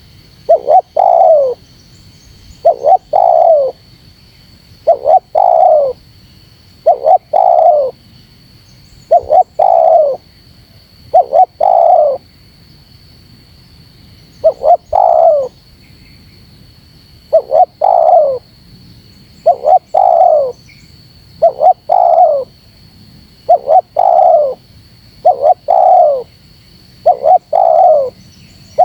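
Spotted dove (terkukur) cooing over and over, a short note followed by a longer falling coo, about one phrase every two seconds with a brief pause midway. It is the close, insistent challenge call used as a lure to provoke wild males.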